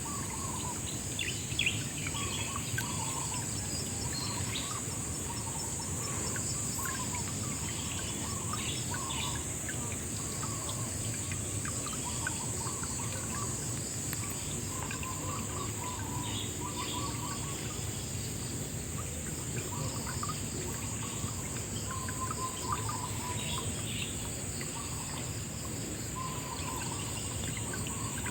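Riverside ambience: a steady high-pitched insect chorus, with birds chirping on and off over a low, even rush of water.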